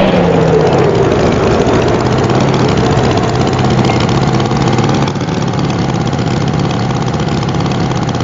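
Tractor engine idling, its pitch dropping as it settles in the first second, then running steadily; slightly quieter about five seconds in.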